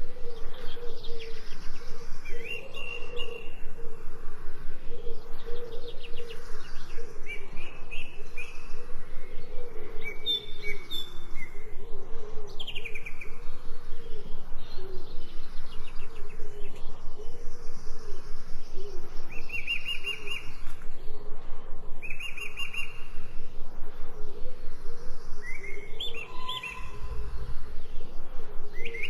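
Small birds chirping and trilling in short, repeated calls, over a fast, even pulsing sound underneath.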